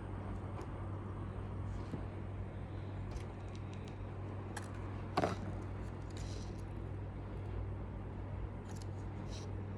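Steady low hum of room or mains noise with scattered faint clicks of small tools and parts being handled, and one brief louder scrape about five seconds in.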